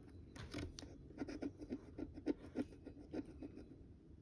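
Scratch-off lottery ticket being scratched: rapid, repeated short scraping strokes across the card's coating, several a second, growing denser about a second in.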